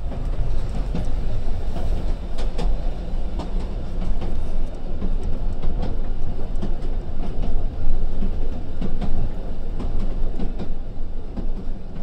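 Train running on rails: a steady rumble with irregular clicks of wheels over the track.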